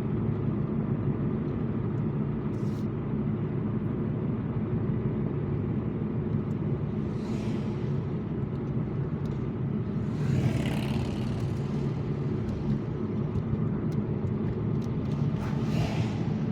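Car interior road noise while driving: a steady low rumble of engine and tyres, with three brief swells of rushing noise, the loudest about ten seconds in.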